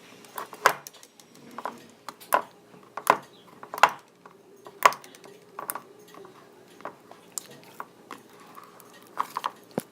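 Slime being squeezed and pressed in the hands, making sharp wet pops and clicks at irregular intervals, about one a second, with a quick cluster of pops near the end.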